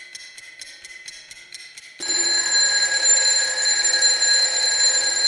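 Radio news music bed: a fast clock-like ticking over a high steady tone, then about two seconds in a loud sustained electronic chord sting that rings on.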